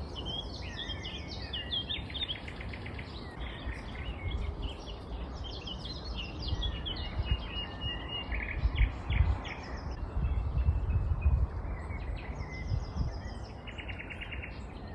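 Common nightingale singing: a varied song of rapid runs of repeated notes, trills and pure whistles, phrase after phrase with short gaps. A low rumble runs underneath.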